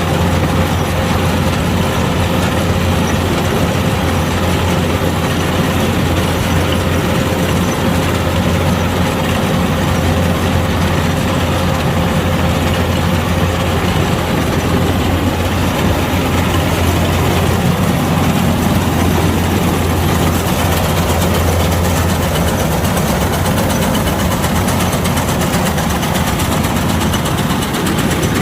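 Kubota DC-105X combine harvester's diesel engine and machinery running steadily, a continuous low drone with a thin steady whine above it.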